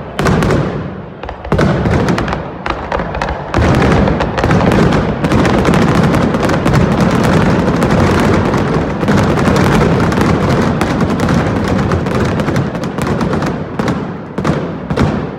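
Fireworks finale: rapid, overlapping bangs and crackling from aerial shells and ground-fired comets, packing into a dense continuous barrage from about four seconds in and thinning out near the end.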